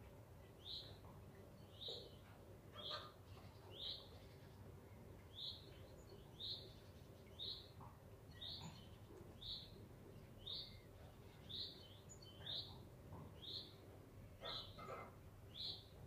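A bird repeating a single short, high call note about once a second, steady and regular, heard faintly.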